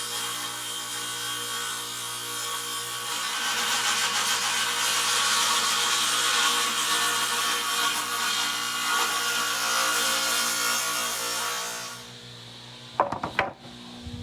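Table saw ripping a 2x6 board lengthwise down the middle: a long, steady cutting noise over the hum of the spinning blade, louder in the middle of the cut. The cut ends about 12 seconds in while the saw keeps running, followed by a few sharp knocks of wood being handled.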